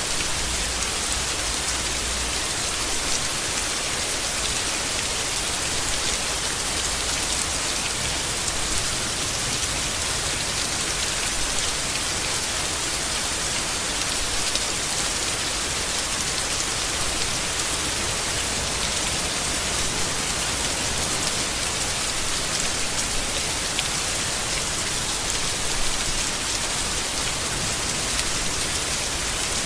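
Steady rain falling on leaves: an even hiss of dense rainfall with scattered individual drop ticks.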